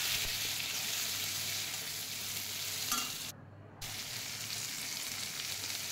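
Diced onion and green capsicum sizzling in oil in a kadai over high flame, a steady frying hiss that cuts out briefly a little past halfway.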